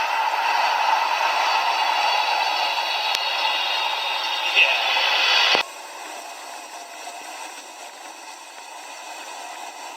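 Loud radio hiss with faint garbled voice, as from a radio receiver, cutting off abruptly with a click about halfway through, after which a quieter hiss remains.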